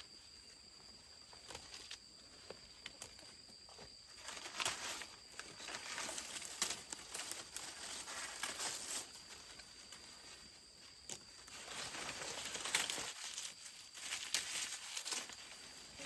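Dry corn husks and leaves rustling and crinkling as they are handled, in irregular bursts with scattered small crackles.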